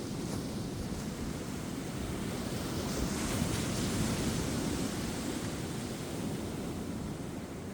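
Ocean surf breaking and washing up a beach, a steady rush that swells toward the middle and eases off near the end, with light wind on the microphone.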